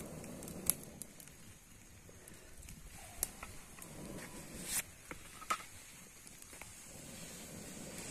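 Small twig campfire burning, with a soft low rush and a few scattered sharp crackles and pops of the burning sticks.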